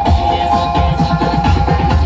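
Electronic dance music with heavy bass and quick falling pitch sweeps, played loud through a large Blizzard Audio carnival sound system during a sound check.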